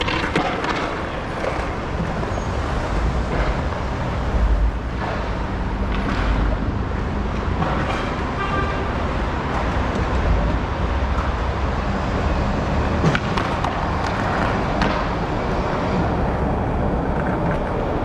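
Skateboard wheels rolling on concrete over a steady low rumble, with a few sharp clacks of the board.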